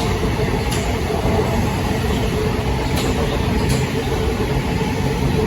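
Pair of Class 377 Electrostar electric multiple units running past, a steady loud rolling noise with a held hum and a few sharp clicks of wheels over rail joints.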